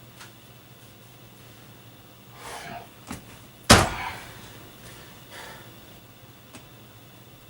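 A few soft rustles and small clicks, with one sharp, loud slam or thump a little over three and a half seconds in.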